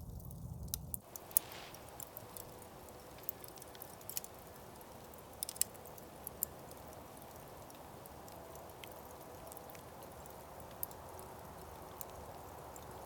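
Wood campfire crackling, a steady hiss with scattered sharp pops and snaps.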